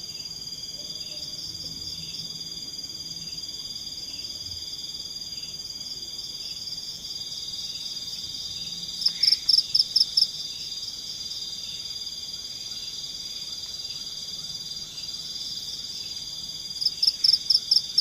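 Night-time tropical forest chorus of insects and frogs: a steady high-pitched drone. Twice, about halfway and near the end, a loud call of about seven rapid pulses rises above it.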